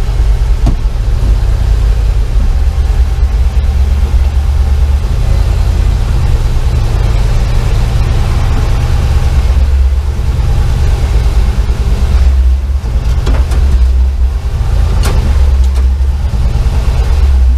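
LS V8 engine in a Chevy C10 pickup running, a deep, steady low rumble that shifts slightly in level.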